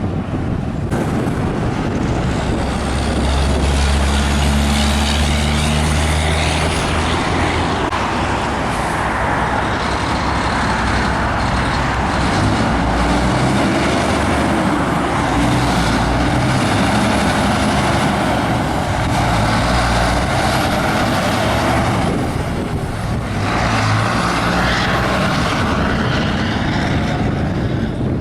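Highway traffic with semi trucks passing one after another at speed: diesel engines and loud tyre noise, swelling and fading with each pass, with a brief lull a little past the middle.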